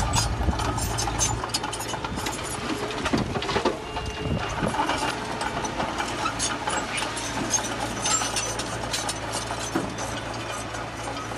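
Heavy diesel engine of earthmoving machinery running steadily, with scattered clicks and clinks. It eases down from a louder stretch in the first second or two.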